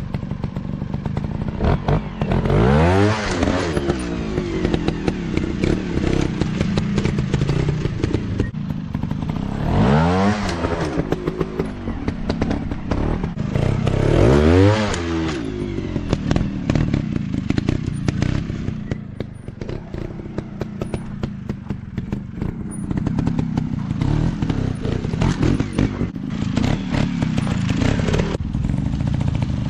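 Dirt bike engines running and being revved hard, the engine pitch rising and falling sharply three times, with clattering and clicks throughout.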